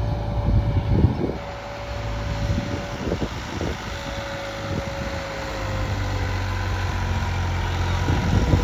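New Holland 3630 tractor's three-cylinder diesel engine running, with a few knocks about one and three seconds in. The engine note gets louder and steadier in the second half.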